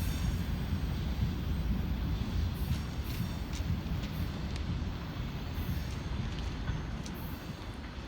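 Electric-hauled train rolling past on the rails: a steady low rumble of wheels and wagons with faint clicks, easing a little toward the end.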